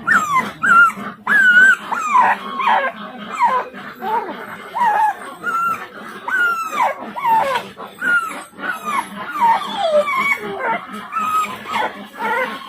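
Dog whining and moaning without a break, a string of short cries that mostly slide downward in pitch, several each second: whining directed at its owner, as if complaining.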